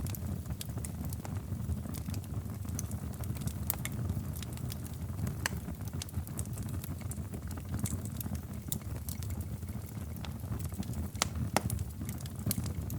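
Wood fire crackling in a fireplace: a steady low rumble of flames with irregular sharp pops and snaps scattered throughout, two of the sharpest a little after eleven seconds in.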